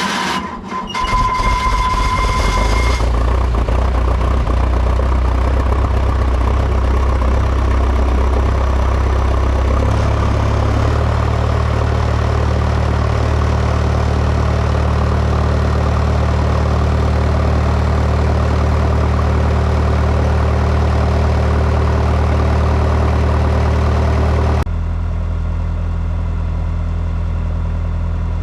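Excavator diesel engine cranking and catching within a couple of seconds, then running steadily; the engine note rises about ten seconds in and drops back about twenty-five seconds in. It starts now that the failed oil-pressure emergency relay has been bypassed so the stop solenoid can move to the run position.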